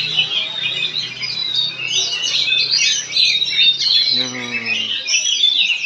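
Oriental magpie-robin (kacer) singing a rapid, unbroken run of varied high chirps, whistles and trills. About four seconds in, a short falling, lower-pitched call sounds under the song.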